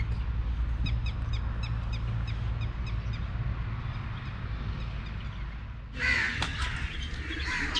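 Birds calling: a quick run of short high chirps over a steady low hum, then, about six seconds in, a louder chorus of cawing and chattering birds.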